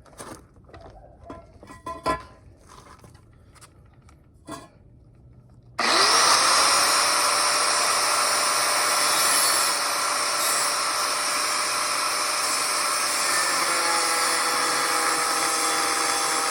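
A few light clicks and knocks, then about six seconds in a power tool spins up and cuts steadily into a steel exhaust pipe at a marked line, with a steady whine over a loud cutting noise.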